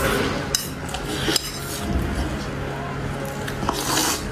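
Eating utensils clinking and scraping against a dish, with a few sharp clicks, over a faint steady hum.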